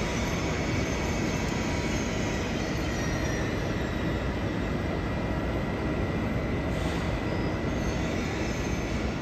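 Deutsche Bahn ICE 3 high-speed train moving slowly along the platform: a steady rumble and hiss with a thin, steady high tone over it.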